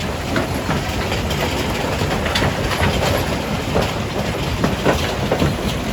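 Jaw crusher running while it breaks rock: a steady heavy rumble with frequent irregular knocks and cracks of stone.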